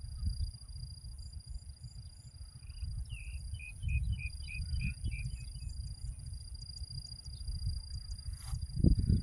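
Steady high-pitched trilling of crickets, with wind rumbling on the microphone. A bird gives a quick run of about nine short chirps a few seconds in, and there is a low thump near the end.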